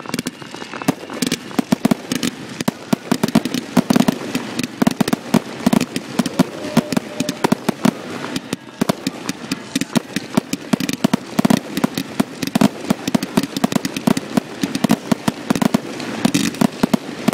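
Aerial fireworks bursting overhead in rapid, irregular succession: a dense run of bangs and crackling reports, several a second, heard from close by.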